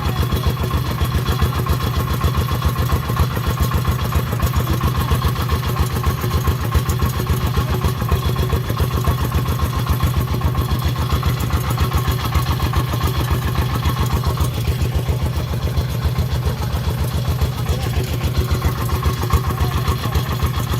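Farm vehicle's single-cylinder diesel engine running steadily, with a fast, even chugging.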